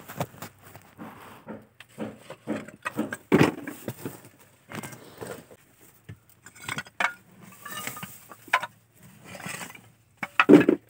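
Irregular clinks, knocks and scrapes of broken roof tiles and rubble being handled and gathered up, with the loudest knocks near the end.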